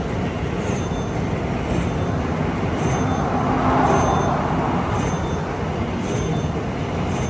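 Casino floor din: a steady wash of slot machine sounds and background crowd noise, with a faint high electronic blip repeating about once a second and a brief swell in the middle.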